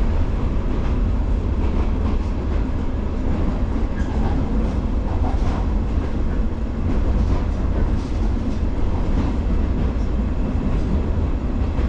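JR 115-series DC electric multiple unit running at steady speed: an even, low rumble of wheels on rail and traction motors, with faint scattered ticks.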